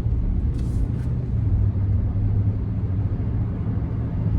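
Steady low rumble of a 2014 Ram 1500's 5.7 Hemi V8 and the truck's running noise, heard from inside the cab, with a brief faint hiss about half a second in.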